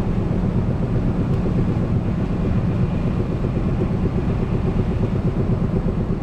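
Four-wheel-drive pickup truck driving steadily, its engine and tyre rumble heard from inside the cab.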